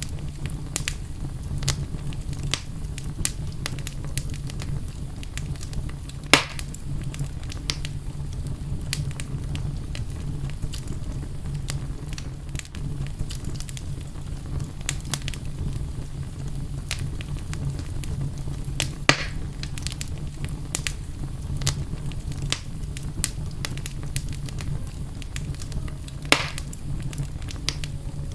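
Wood fire burning in a fireplace: steady crackling with many small snaps over a low, even rumble from the flames. Three louder pops stand out, about six seconds in, near the middle and near the end.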